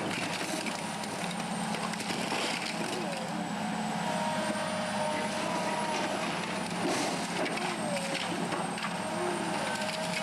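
Heavy diesel machinery running steadily, with wavering whining tones and scattered knocks and crunches of material being broken.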